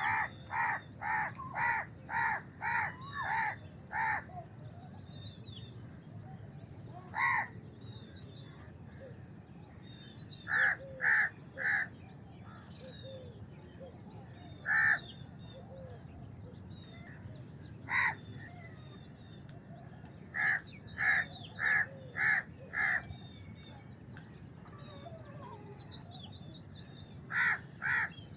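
House crows cawing: a quick run of about seven harsh caws at the start, then bursts of one to five caws spaced through the rest. Smaller birds twitter high in the background.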